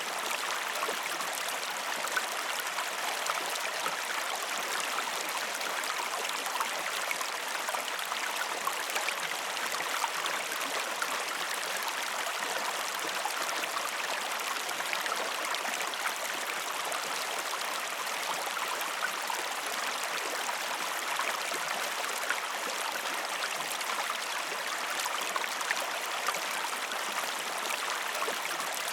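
Steady running water, like a small stream trickling, with an even level and no change.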